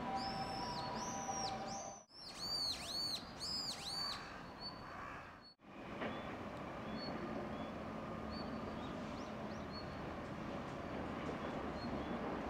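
A bird chirping in a quick run of high, arching notes for about the first four seconds, then a few faint chirps. Under it is a steady hum of distant city traffic, broken by two brief dropouts.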